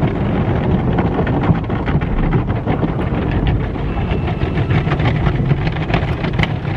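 Automatic car wash running over the car, heard from inside the cabin: a steady, dense rush with many short, sharp patters of water and equipment hitting the body.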